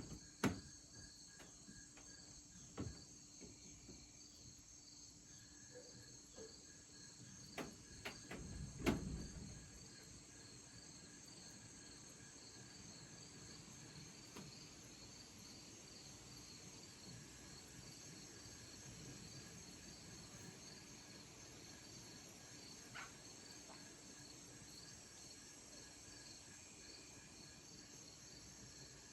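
Faint chorus of crickets trilling steadily in even, pulsing high notes. A few soft knocks in the first ten seconds and a low thump about nine seconds in.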